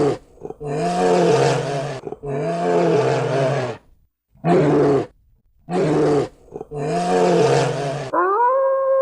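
Donkey braying: a repeated hee-haw in which short, harsh calls alternate with longer, rasping ones. Near the end a different animal begins a steady, long-held call.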